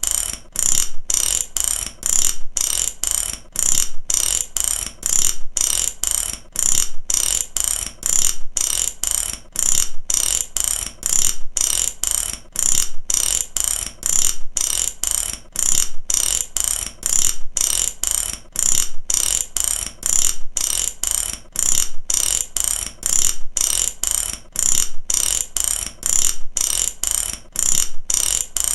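Mechanic's ratchet wrench being worked back and forth, its pawl clicking in rapid runs about twice a second with short pauses between strokes.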